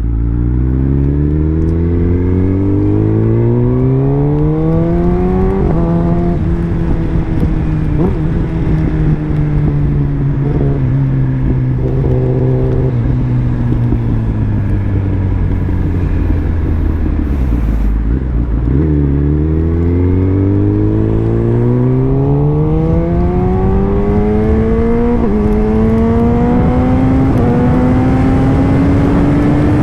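Kawasaki ZX-10R sportbike engine under way: it pulls up through the revs, changes gear about six seconds in, then eases off and slows for several seconds before accelerating hard again with another gear change near the end.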